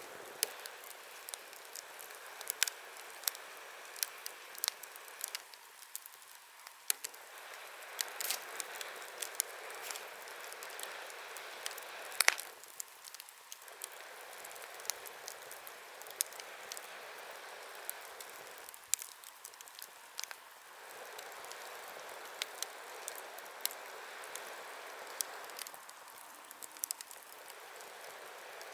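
Wood bonfire crackling, with many sharp pops and snaps over a steady hiss of burning that eases off briefly every six or seven seconds. A louder pop comes about 12 seconds in.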